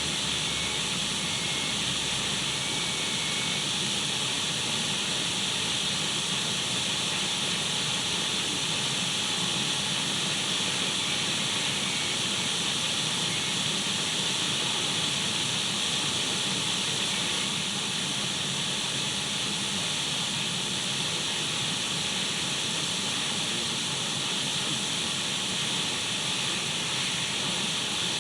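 Radio static: a steady, unbroken hiss, brightest in the upper-middle range.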